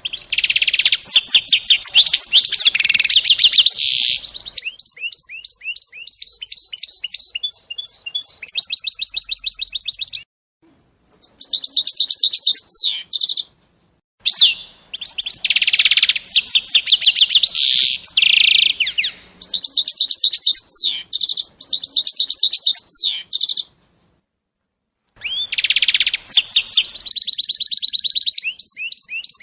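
A small songbird singing long, loud phrases of rapid trills and quickly repeated notes, pausing briefly about ten, fourteen and twenty-four seconds in.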